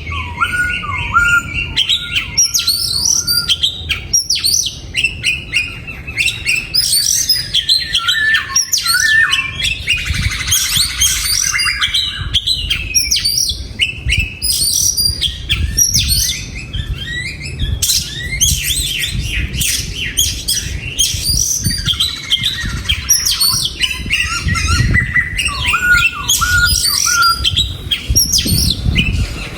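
Oriental magpie-robins singing: a steady run of varied whistled phrases and chirps, with a repeated phrase of falling whistles near the start and again near the end.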